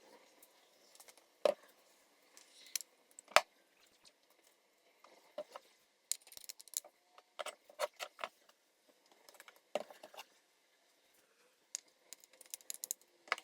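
Scattered light metallic clicks and clinks, some in quick clusters, from small engine parts being handled as pistons go onto the connecting rods and their wrist-pin circlips are snapped into place.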